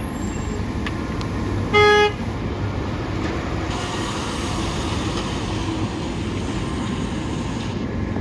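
A garbage truck's horn gives one short, loud honk about two seconds in, over the steady rumble of idling and passing trucks. A steady hiss follows for about four seconds.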